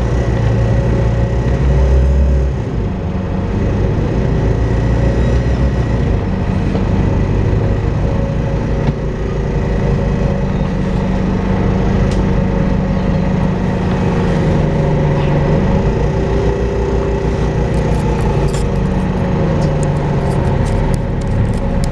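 Volvo B5LH diesel-electric hybrid double-decker bus running, with the steady vacuum-cleaner-like 'hoover' whine over the drivetrain. The engine note rises and falls in the middle, and short rattles and clicks come near the end.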